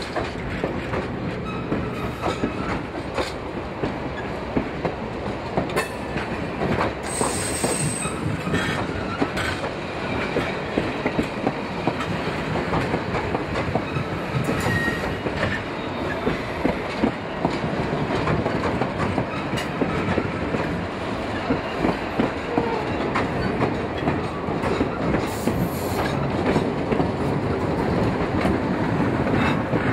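Fillmore and Western Railway train rolling past, its wheels clattering steadily over the rail joints, with a brief high wheel squeal about seven seconds in.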